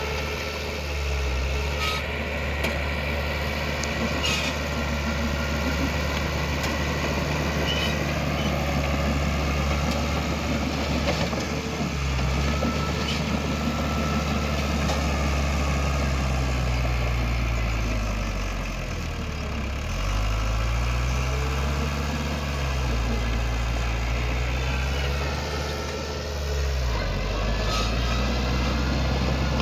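Heavy diesel engine of earthmoving machinery running continuously, its engine note dipping and climbing several times as it is worked under load, with a few short clanks in the first seconds.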